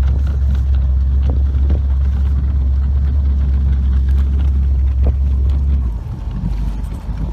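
Motorboat underway: a steady low rumble of the boat's motor mixed with wind on the microphone, which drops off sharply about six seconds in.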